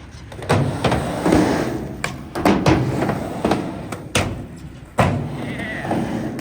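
Skateboard wheels rolling on a hard surface, broken by about eight sharp clacks and thuds of boards hitting the ground.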